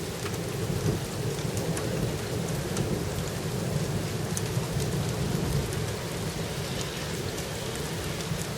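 Steady heavy rain falling, with many separate drops ticking on a hard surface over a low, steady rumble.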